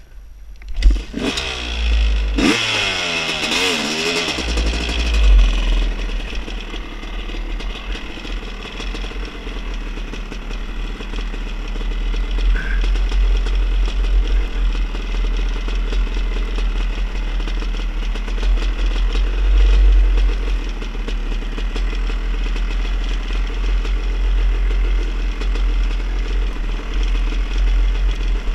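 A vehicle engine revs up about a second in, its pitch rising and falling for a few seconds. It then runs steadily under way, with a heavy low rumble.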